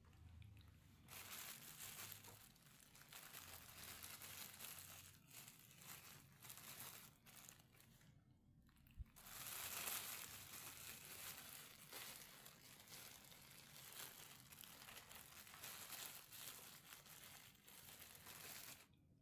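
Faint, almost continuous crinkling and rustling, like something crumpled being handled, with a short pause and a single click about halfway through.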